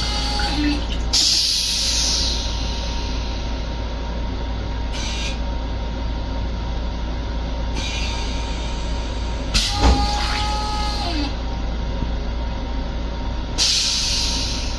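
LIRR M7 electric railcar running, heard inside its small restroom: a steady low rumble with short spells of hissing every few seconds. About ten seconds in there are two sharp knocks with a brief squeal.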